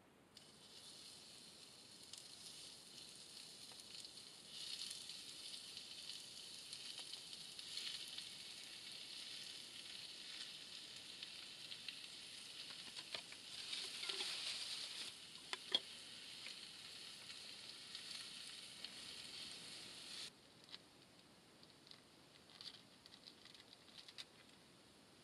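Pork and kimchi sizzling as they fry in a pan, a steady hiss with a few sharp clicks, which cuts off suddenly near the end.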